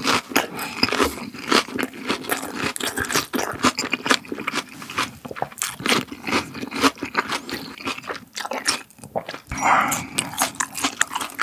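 Close-miked chewing of a raw onion wrap filled with grilled beef large intestine and chives: a dense, unbroken run of crunching and wet smacking.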